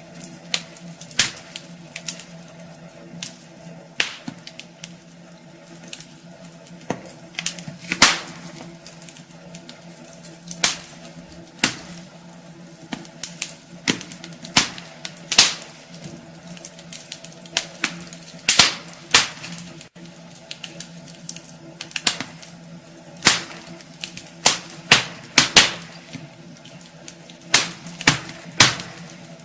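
Wood fire burning in a fireplace, crackling with irregular sharp pops that come singly or in quick clusters, over a steady low hum.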